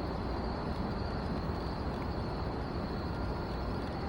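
Steady outdoor night background noise: a low rumble with a constant high-pitched hum or hiss above it, and no distinct events.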